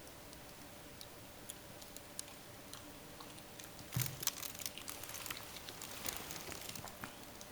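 A dog chewing and crunching on something, with scattered small clicks at first. A dense burst of crunching starts about four seconds in.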